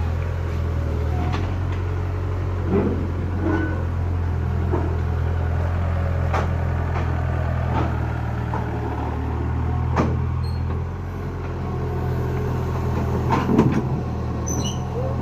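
Tractor engine running steadily under load, with scattered clanks and knocks.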